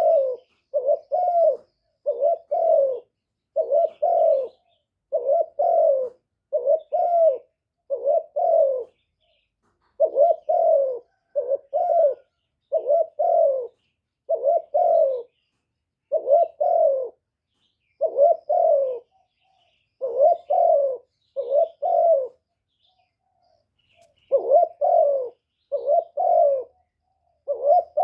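Spotted dove cooing over and over, a steady string of low, paired coos with one short pause about three-quarters of the way through.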